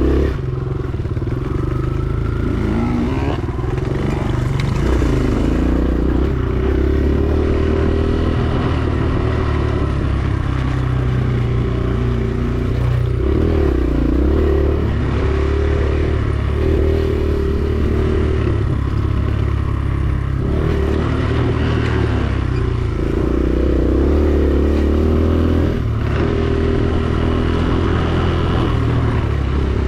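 Dirt bike engine running hard, its pitch repeatedly rising and falling as the throttle is opened and closed, with some clatter and scraping from the bike over rough ground.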